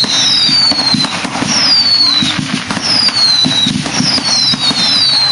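Fireworks going off: a string of high whistles, each falling in pitch and lasting under a second, over continuous crackling and popping with low thumps.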